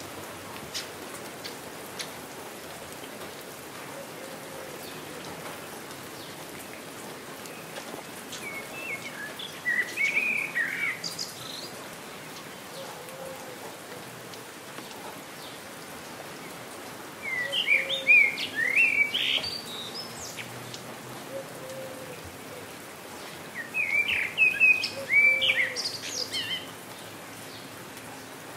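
Steady rain falling, with a few scattered drop ticks, and a songbird singing three bursts of quick, chirping phrases, near ten seconds in, around eighteen seconds, and again near the end.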